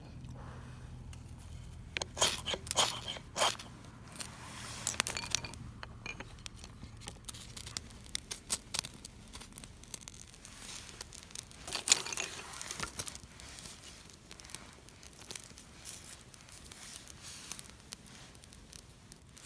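Crunching, scraping and snapping of dry material being handled. A cluster of sharp cracks comes about two seconds in, more follow around five seconds and again near twelve seconds, with scattered smaller crackles in between.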